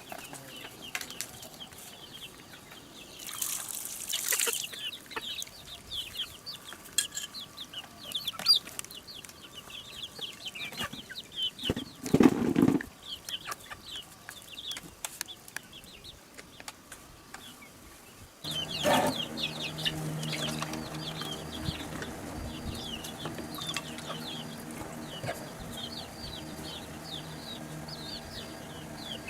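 Chickens clucking, with many short high chirps throughout and a few louder bursts. About two-thirds of the way in, a steady low hum starts suddenly and carries on under the chirping.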